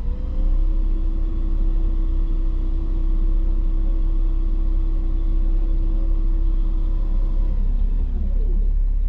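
Vehicle engine running with a steady low rumble. Over it, a steady whine holds for about seven seconds, then wavers and falls away.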